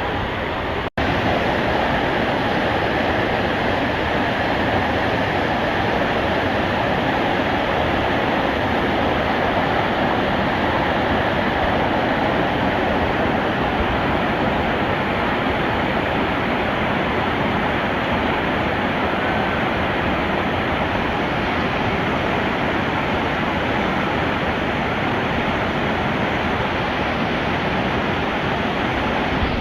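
Steady rushing of whitewater in a mountain stream's rapids, with a brief dropout about a second in.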